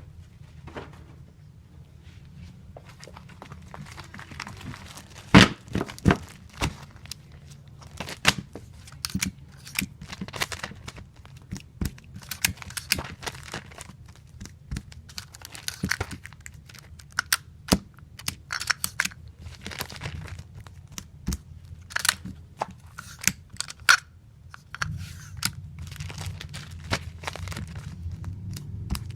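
Clear tape pulled off a tape dispenser and snapped off on its cutter, over and over, while comic books are taped: sharp clicks and short ripping hisses at an irregular pace, with a steady low hum underneath.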